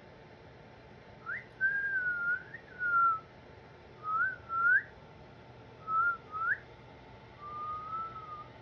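Clear whistled notes in several short phrases, each opening with a quick upward slide and then holding a wavering tone, ending with a longer, softer note.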